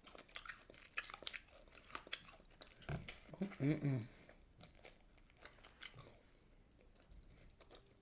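Close-up chewing and crunching of fried fast food, a run of small crackles and mouth clicks. About three and a half seconds in, a short hummed voice sound that bends in pitch, the loudest moment.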